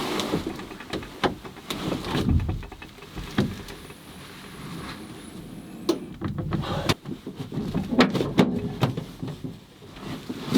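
Irregular knocks, clicks and rustling of someone moving about and handling things inside a truck-bed camper canopy.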